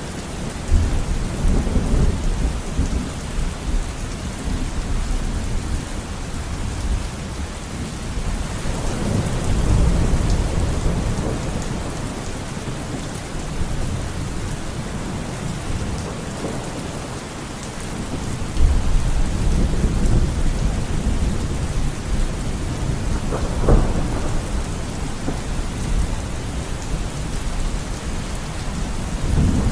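Steady rain falling, with rolls of thunder rumbling low several times, the biggest swells about a second in, near ten seconds and near twenty seconds, and a sharper crack of thunder a little before the end.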